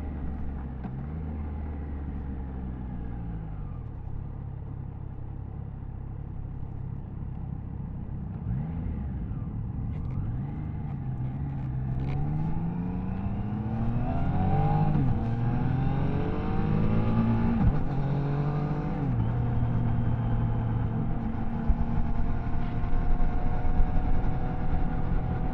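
Triumph Tiger Sport 660's three-cylinder engine on the move: it slows off the throttle over the first few seconds, then pulls harder. In the middle its pitch climbs and drops several times as it shifts up through the gears, then it settles into a steady cruise.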